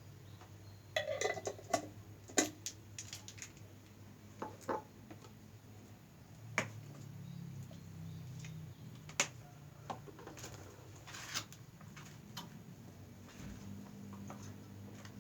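Irregular light clicks and knocks of utensils handling a noodle box, with a few brief rustling scrapes, over a low steady hum.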